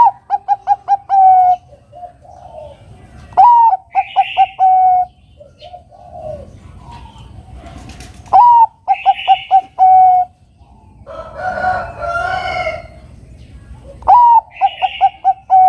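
Zebra dove (perkutut, Bangkok strain) singing its manggung song in four repeated phrases. Each phrase is a rising then falling opening note followed by a quick run of short coos that ends on a longer note. About two-thirds of the way through, a longer, harsher call from another bird sounds.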